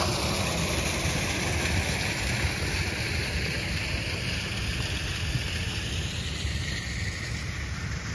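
Road noise inside a moving car: a steady low rumble with hiss.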